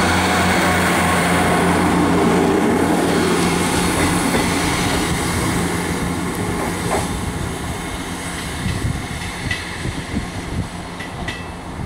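ScotRail diesel multiple unit running past and pulling away, its engine hum and rail rumble fading over the first few seconds. Quieter rumble remains, with a few faint clicks.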